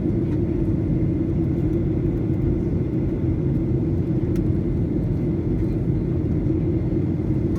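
Steady cabin drone inside a Boeing 737-900 in flight: the even rumble of engines and airflow, unchanging throughout.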